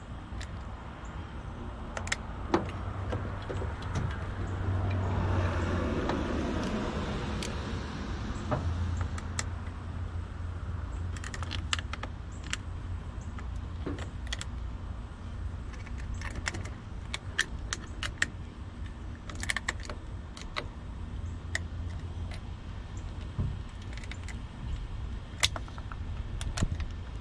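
Scattered light metallic clicks and clinks of battery charger leads and clamps being handled and clipped on, over a steady low hum. A broad rush of noise swells and fades about five to eight seconds in.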